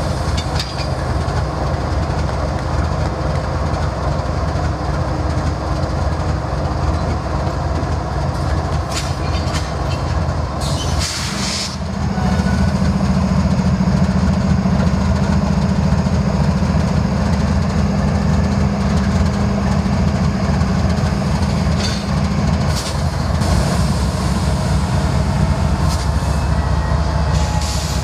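Norfolk Southern train rolling past, with wheels clacking on the rails under a continuous rumble. About twelve seconds in a steady low drone comes in louder and holds for about ten seconds before easing.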